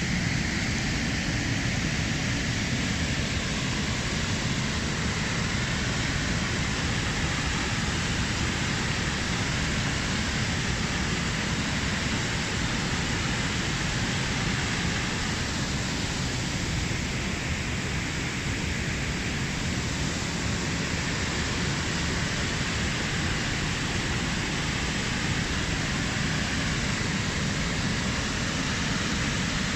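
Waterfall rushing as a steady, unbroken roar of falling water.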